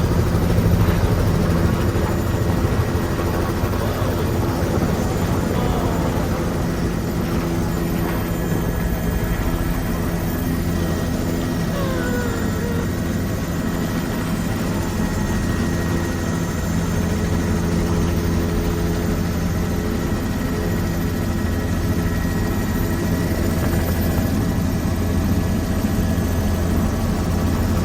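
Helicopter running with a steady low drone made of several even, unchanging tones.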